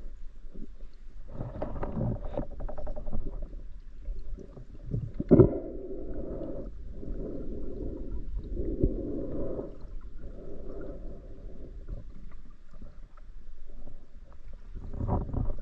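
Muffled water noise picked up through an action camera's waterproof housing during a spearfishing dive. It comes in dull surges of a second or so, with a sharp knock about five seconds in.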